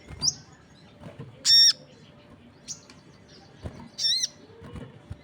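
Sogon (crested jay) calling: short, strident calls with several stacked tones, the two loudest about a second and a half and four seconds in, with fainter short chirps between.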